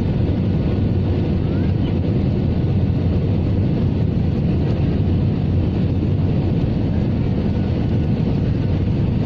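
Steady low rumble of an Airbus A320-214 cabin in flight, the CFM56 turbofan engines and the airflow over the fuselage heard from a window seat.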